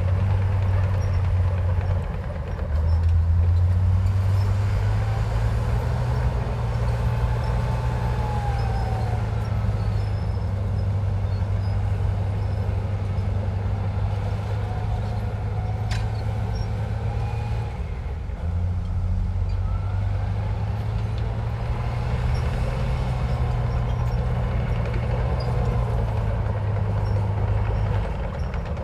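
Komatsu bulldozer's heavy diesel engine working steadily, with a deep drone whose pitch shifts a few times as the load changes, and faint squeals over it.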